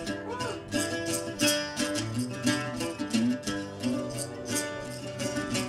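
Instrumental music: a plucked string instrument, most likely a guitar, strummed in a steady rhythm with no singing.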